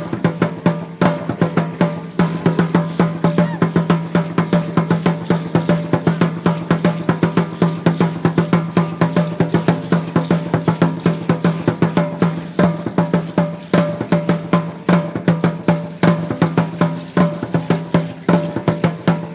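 Drumming for Aztec (Chichimeca) dance, most likely a huehuetl, played in a fast, even beat with a steady low hum ringing under the strokes.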